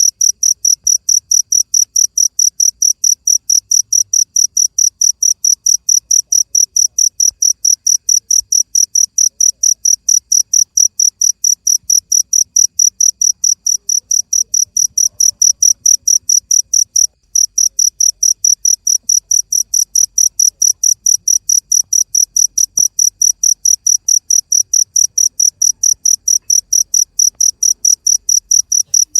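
A cricket chirping steadily: short high chirps at one pitch, about three a second, with one brief break a little past halfway.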